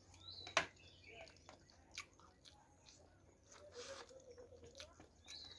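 A person chewing food, faint, with scattered wet mouth clicks and one sharper click about half a second in.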